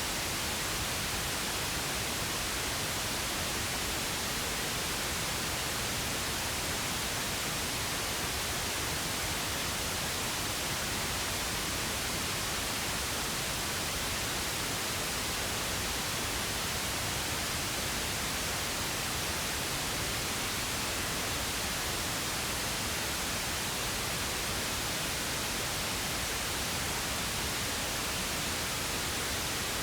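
Steady pink noise: an even, unchanging hiss with equal energy per octave, softer in the highs than white noise.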